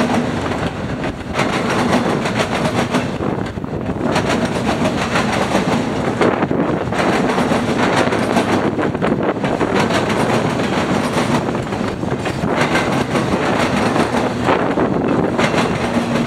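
Freight train cars rolling past close by: a steady, loud rumble and clatter of steel wheels on the rails, dipping briefly every couple of seconds.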